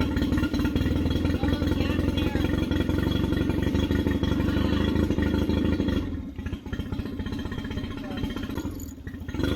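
Nissan Marine outboard motor running on a test start, a steady engine note that drops quieter about six seconds in and picks up again near the end.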